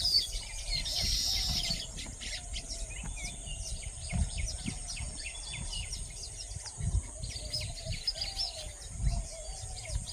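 Small birds chirping and twittering in quick, overlapping calls, over a steady high hiss and low rumbling thumps.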